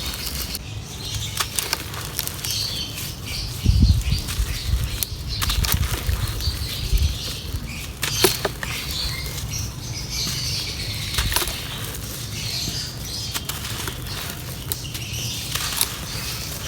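Dry clay crumbling in a clay pot: a continuous crisp crackling and crunching with many small sharp snaps, and a few heavier low thumps about four seconds in.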